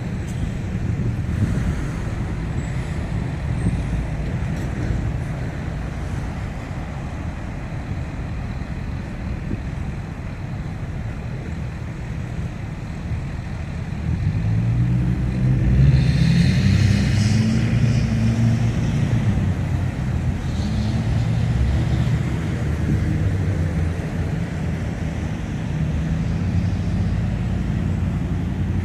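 Rush-hour road traffic: the steady engine and tyre rumble of passing cars, trucks and buses. About halfway through, a heavy vehicle's engine grows louder, its pitch rising and falling, with a brief hiss in the middle of it.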